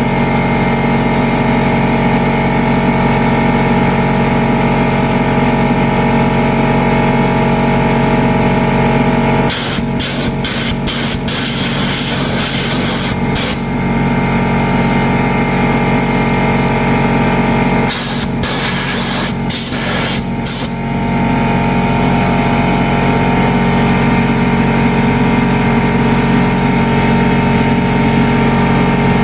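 Compressed-air blow gun hissing in two spells: a few short blasts and a longer blast about ten seconds in, then another run of short blasts about eighteen seconds in. Under it runs a steady mechanical hum.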